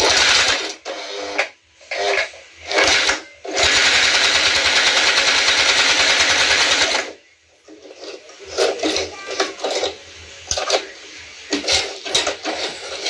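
Singer Heavy Duty 4423 sewing machine running: a few short bursts, then one steady run of about three and a half seconds that stops suddenly, followed by scattered clicks and knocks.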